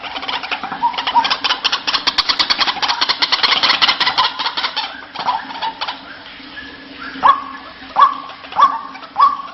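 White-breasted waterhen (ruak-ruak) calls played as a trapper's lure: a fast, loud rattling chatter of about eight pulses a second for the first half. Then, from about seven seconds in, sharp single notes that flick up and fall, four of them about 0.6 s apart.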